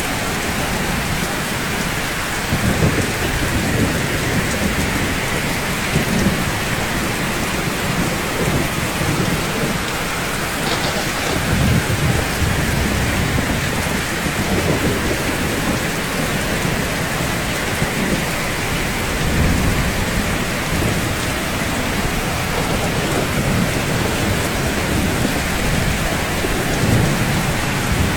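Steady rain falling on rooftops, an even hiss of drops, with a low rumble that swells and fades several times.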